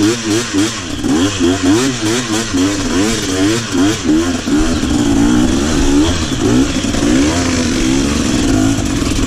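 Trail motorcycle engine revving up and down rapidly, about twice a second, as the throttle is worked. From about halfway it settles into steadier revs.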